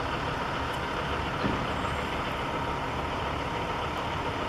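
Steady rumble of distant road traffic: an even, unchanging outdoor hum with no distinct events.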